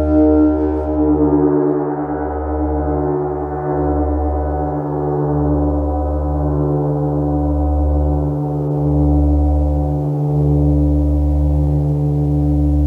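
A gong ringing with a deep sustained drone, its many overtones slowly fading while the low tones keep swelling and ebbing in a slow wavering beat.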